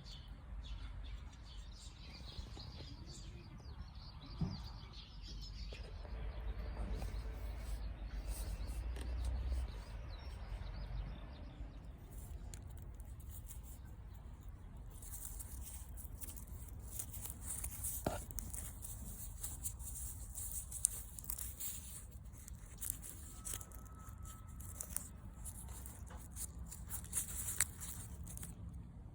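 Wood campfire crackling, with scattered sharp pops and a hiss that grows brighter in the second half; a low rumble runs under the first ten seconds or so.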